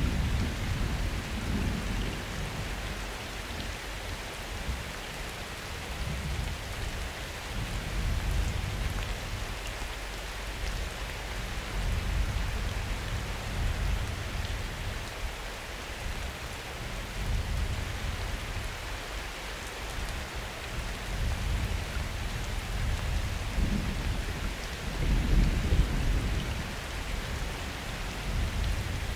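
Summer thunderstorm: steady rain with low, rolling thunder that swells and fades several times, loudest about a second in, around twelve seconds in and again about twenty-five seconds in.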